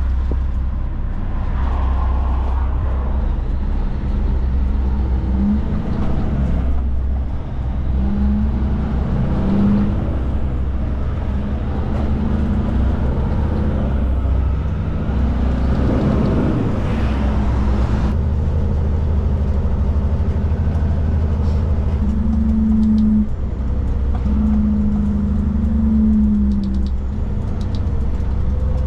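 Kenworth K200 cabover truck's Cummins diesel engine running as the truck drives on the road: a steady deep drone, with a higher engine note that comes and goes.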